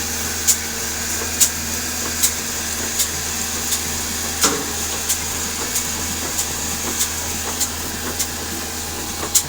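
Old desi single-cylinder diesel engine running slowly, with a sharp knock at each firing stroke a little over once a second, the knocks coming gradually quicker as it picks up speed, over a steady low hum.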